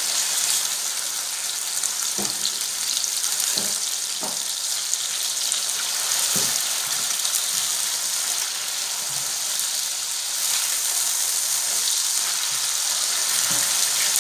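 Chicken strips and sliced garlic sizzling in hot oil in a frying pan: a steady frying hiss, with a few soft knocks as a spatula stirs them.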